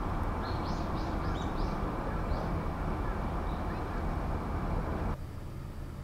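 A small wild bird chirping, a quick run of about six short high notes in the first couple of seconds, over a steady low background rumble that drops off sharply about five seconds in.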